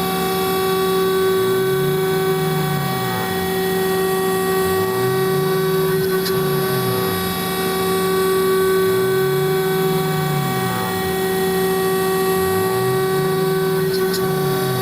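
CNC router spindle turning a 4 mm single-flute carbide end mill at about 22,000 rpm, a steady whine, as the cutter mills polyethylene. A lower motor tone rises and falls every three to four seconds as the machine feeds back and forth across the pocket.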